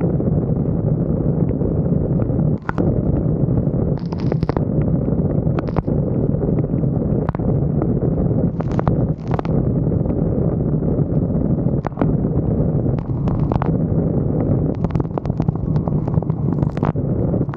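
Wind buffeting the microphone of a roof-mounted 360° camera: a steady, heavy low rumble, with scattered short sharp ticks over it.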